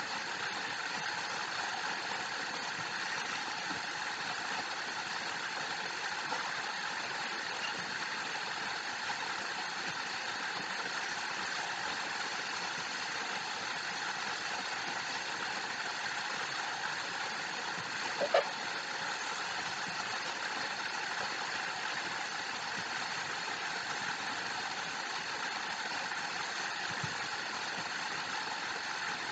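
Steady rushing water of a waterfall, an even unbroken noise, with one brief louder blip about eighteen seconds in.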